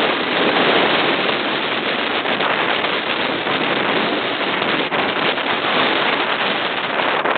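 Big waves breaking on a rocky shore at high tide: a constant, loud roar of surf with no let-up.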